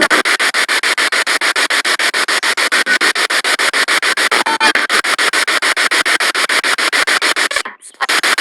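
Spirit box radio sweeping through stations: a rapid, choppy stream of static pulses, about ten a second, cutting out briefly near the end.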